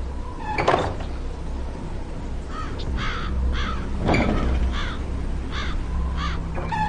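A bird calling in a series of about six or seven short calls, starting about two and a half seconds in, with a sharp knock near the start and another about four seconds in.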